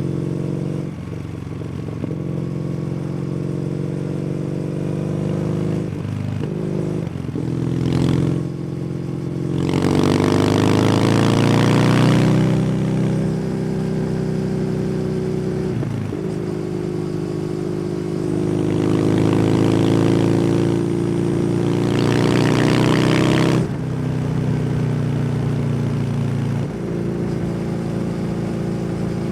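Kawasaki W800's parallel-twin engine through an SC Project exhaust, heard from the motorcycle as it rides: a steady run with two spells of accelerating. The pitch rises about ten seconds in and again around twenty seconds, and the second rise ends in a sudden drop.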